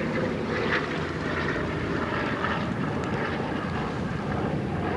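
Airplane engine droning steadily as a plane flies by.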